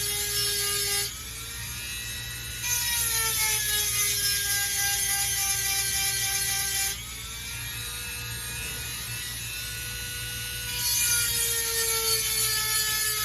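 Dremel rotary tool with a 7/32-inch chainsaw sharpening stone running at high speed in a steady whine, grinding the cutters of a chainsaw chain. There are three grinding passes, each louder with a gritty hiss and a slight drop in pitch under load, and the whine rises again between passes.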